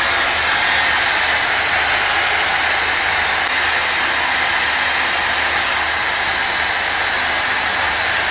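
Dyson Supersonic hair dryer running steadily, a loud even rush of blown air.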